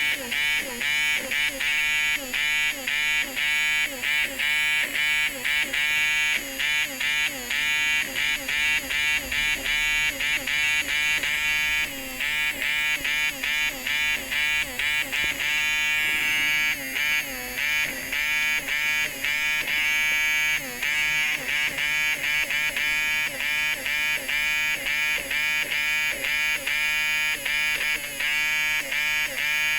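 Small battery electric eraser buzzing in short, repeated strokes against paper, its pitch dipping briefly with each stroke as it lifts colored pencil out of the drawing.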